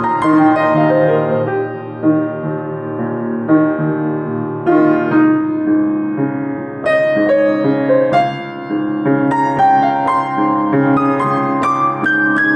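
Solo piano improvisation: melody notes struck over sustained chords.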